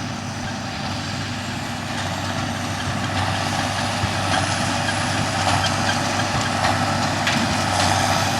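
A steady mechanical drone with a low hum, slowly growing louder.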